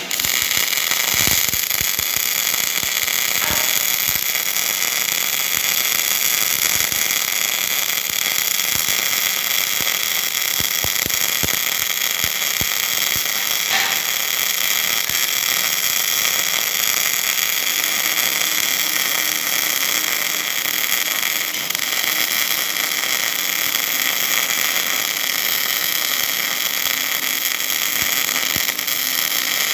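MIG welding arc hissing and crackling steadily as a filling pass is run on a 3-inch hydraulic cylinder rod.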